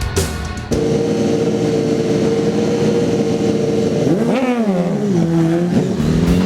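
Drag racing motorcycle engine held at steady high revs. About four seconds in, the revs swing up and down, then settle at a lower steady note.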